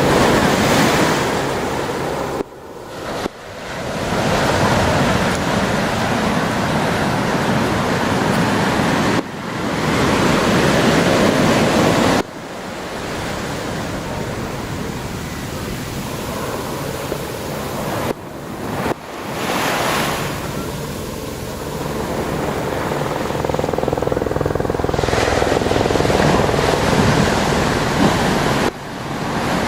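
Ocean surf washing on the beach with wind buffeting the microphone, a dense steady rush whose loudness drops abruptly several times.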